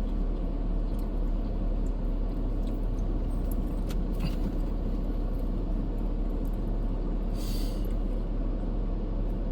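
Steady low engine rumble, with a few faint clicks and a brief rustling hiss about three-quarters of the way through.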